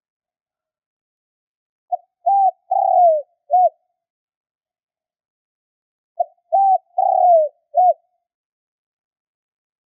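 Spotted dove cooing: two four-note phrases, one about two seconds in and one about six seconds in, each a short note, a held note, a longer falling note and a short closing note.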